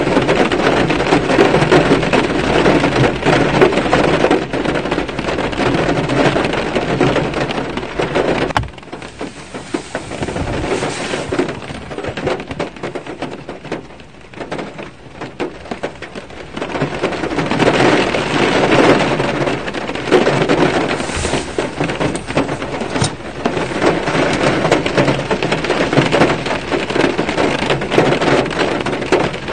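Rain falling on a car's roof and windshield, heard from inside the car: a dense patter of drops that eases for several seconds about a third of the way in, then grows heavy again.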